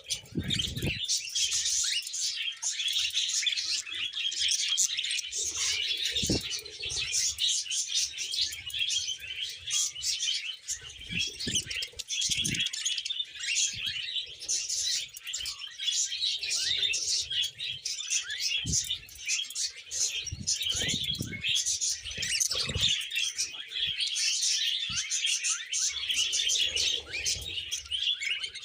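A flock of budgerigars chattering and warbling continuously in fast, busy chirps. Short low thumps come now and then through it.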